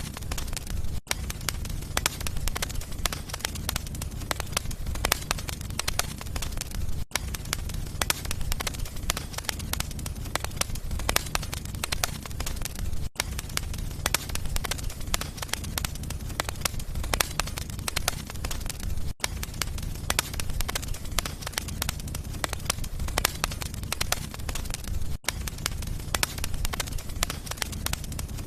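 Wood fire burning in a fireplace: dense crackling and popping over a steady low rumble of the flames, with a brief dropout about every six seconds.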